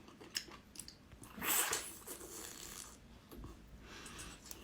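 Faint mouth sounds of someone chewing sea cucumber, with small wet clicks and one short breathy swell about a second and a half in.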